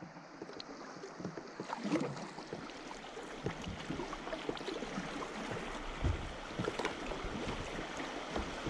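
River water splashing and trickling around a kayak, with many small irregular splashes and drips over a steady rush that grows gradually louder.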